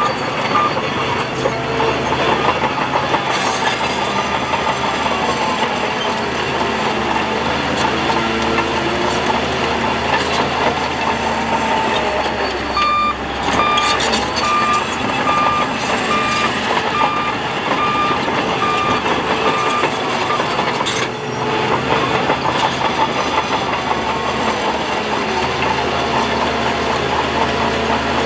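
Heavy earthmoving machinery running steadily, with engine pitch rising and falling as the machines work under load. A reversing alarm beeps evenly at the start and again for several seconds around the middle.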